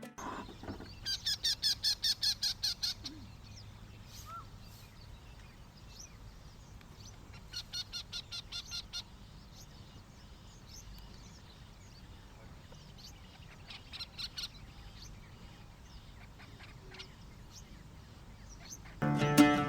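Wild bird calling in three bouts of rapid repeated notes, about six a second. The first bout is the loudest; a shorter one comes about halfway through and a brief one later.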